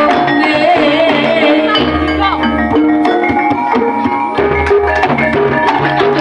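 Loud, amplified Javanese gamelan-style music played through a sound system: struck metallophones ringing out a melody over kendang-like hand drums, with a voice singing.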